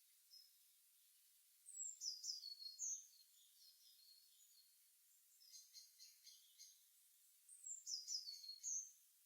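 Songbirds singing in the early morning: two bright phrases of quick, falling, high-pitched notes about six seconds apart, with softer chirps in between, all faint.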